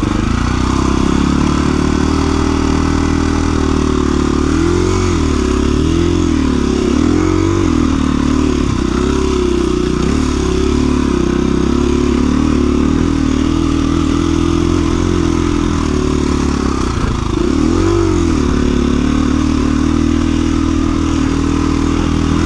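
2017 KTM 350 EXC-F's single-cylinder four-stroke engine running under trail-riding throttle at fairly steady revs. The pitch wavers up and down a few times around four to eight seconds in and again just before the end, as the throttle is worked over the terrain.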